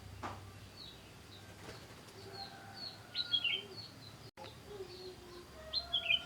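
Small aviary birds chirping: a run of short, high chirps, with two louder, sharper calls, one about three seconds in and one near the end.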